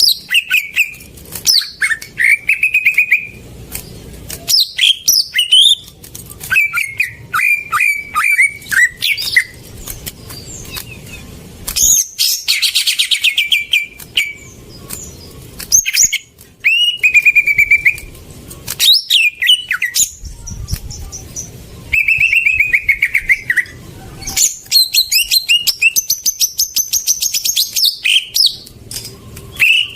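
Cucak ijo (green leafbird) singing: a long run of varied whistled phrases, fast trills and sharp chirps, broken by short pauses.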